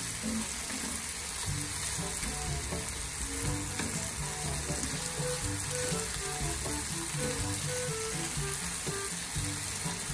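Diced potatoes, tomatoes and onion sizzling steadily in hot oil in a frying pan as they are turned with a spatula.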